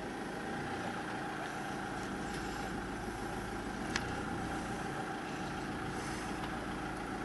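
Four-wheel-drive vehicle's engine running steadily in low-range reverse, heard from inside the cab, with a single short click about four seconds in.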